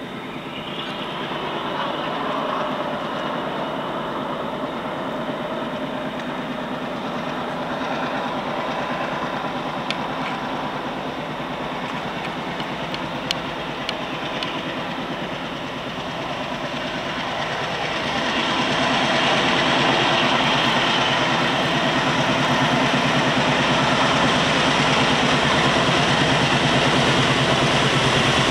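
A freight train approaching at speed: the locomotive and rail noise grow louder, stepping up about two-thirds of the way through, with a few faint clicks in the middle.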